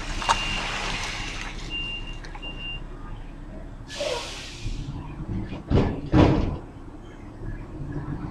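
Repeating high-pitched beeps for the first few seconds, then a short hiss about four seconds in, followed by two heavy thuds in quick succession about a second and a half later.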